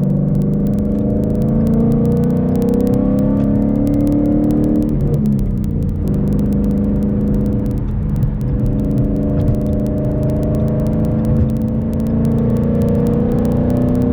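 Car engine pulling steadily as the car accelerates: its pitch climbs slowly, drops sharply about five seconds in at a gear change, then climbs again.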